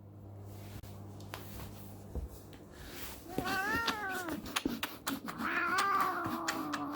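A domestic cat yowling twice: a rising-and-falling call about halfway through, then a longer, wavering one near the end. Faint clicks run throughout.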